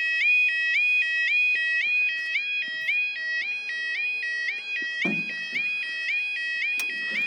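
Level crossing warning alarm sounding: an electronic two-tone yodel stepping between a lower and a higher note about twice a second.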